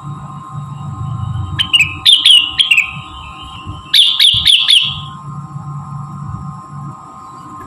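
Cucak rengganis (leafbird) song: two quick runs of sharp, falling chirps, the first about one and a half seconds in and the second about four seconds in, over a steady hum.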